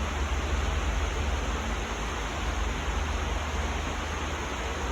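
Steady outdoor rushing noise with a low rumble underneath, even throughout and with no distinct events.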